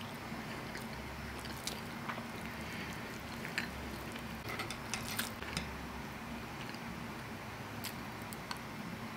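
Chewing a mouthful of macaroni and cheese, with scattered small wet clicks and a metal spoon scooping from a cast-iron skillet, over a faint steady low hum.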